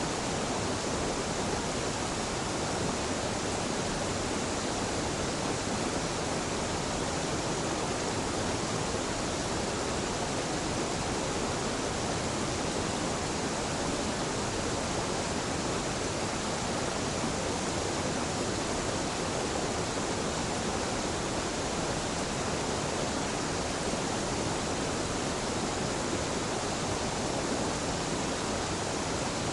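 Gentle waterfall where two mountain streams meet, water pouring and splashing in a steady, unbroken rush.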